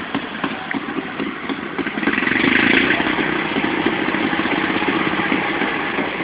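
Tractor engine running at a tractor pull, getting louder about two seconds in and staying loud for several seconds.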